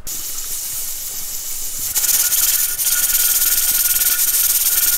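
Steam hissing and sputtering out from under the weight of a weighted-gauge pressure canner as it reaches 10 psi and the weight starts rattling. It gets louder about two seconds in, with a faint steady whistle.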